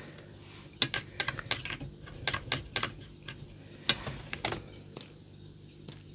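Paintbrush tapped to flick paint splatter onto a card: a string of irregular sharp light taps, the loudest about four seconds in, thinning out near the end.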